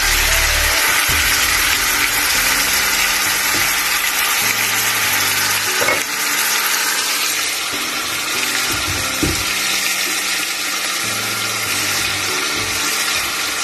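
Chicken pieces sizzling as they fry in hot oil in a non-stick frying pan, a steady dense hiss, with background music underneath.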